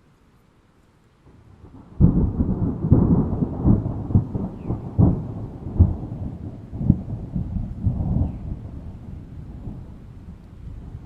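Thunder: a low rumble builds, then a sudden loud crack about two seconds in, followed by several seconds of crackling, rolling peals that die away into a low rumble.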